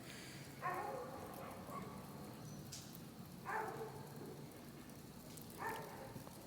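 A dog barking three times, a few seconds apart.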